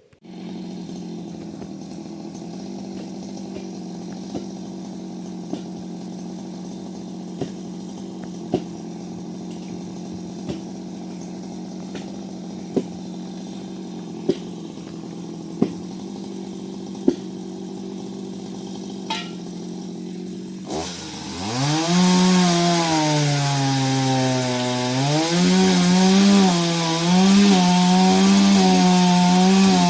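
Chainsaw running steadily at low speed with light ticks about every second and a half. About 21 seconds in it revs up hard and cuts into wood, much louder, its pitch dipping and recovering as it bogs under load.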